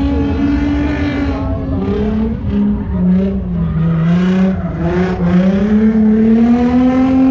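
A drift car's engine revving at high rpm. The pitch dips about three to five seconds in and climbs again as the throttle is worked through the slide.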